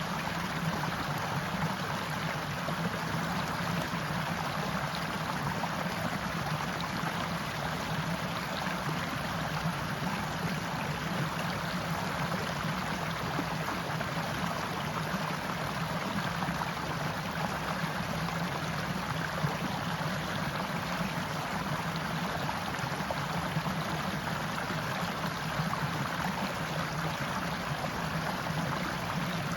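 Forest stream flowing and babbling over rocks, a steady rushing water sound.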